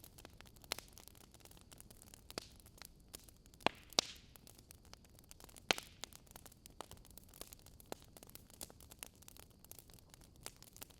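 Wood fire burning in a fireplace, crackling with irregular sharp pops over a soft steady hiss. A few louder pops come near the middle, one trailing off in a brief hiss.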